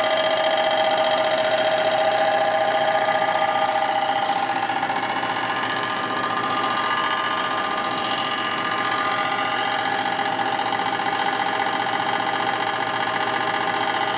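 Milling machine spindle running steadily with a fly cutter taking a light pass across a chromed primary cover, the cutter barely cutting, giving a steady whine with several held tones.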